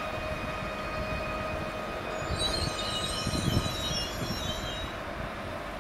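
Electric multiple-unit passenger train running slowly into a station with a steady rumble and whine. A high-pitched squeal rises from the wheels and brakes about two seconds in and lasts a couple of seconds as it brakes.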